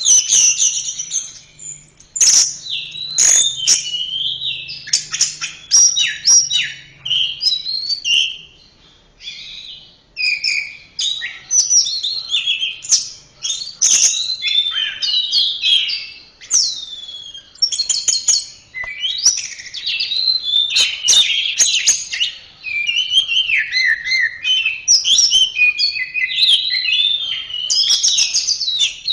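Orange-headed thrush (anis merah) singing a continuous, varied song of quick whistled phrases, glides and sharp notes, with only brief pauses.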